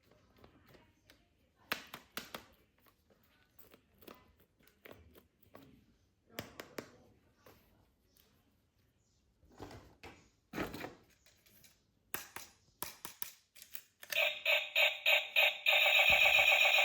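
Light clicks and knocks of plastic toy parts being handled, then about fourteen seconds in a loud electronic sound effect from a toy gun's sound chip, pulsing about three times a second before holding steady.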